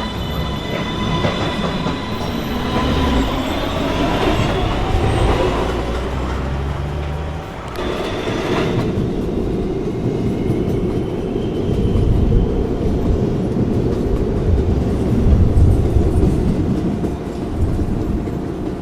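New York City subway train pulling out of a station: the traction motors whine, rising in pitch over the first few seconds as it accelerates. After that it runs on with a steady rumble and wheel clatter on the rails.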